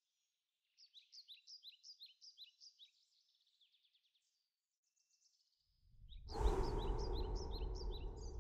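A bird chirping in a quick run of short, high, falling notes, about five a second, then from about six seconds in a loud rushing noise with a deep rumble swells in under more chirps.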